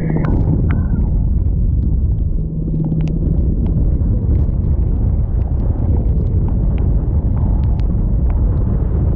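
Boat's engine running under way in a storm, heard as a loud, steady low rumble mixed with wind buffeting the microphone, with scattered sharp ticks of rain and spray striking it.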